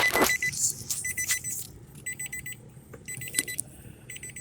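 A car's electronic warning chime beeping in short rapid buzzing bursts about once a second, with a few knocks and clicks of handling, the loudest right at the start.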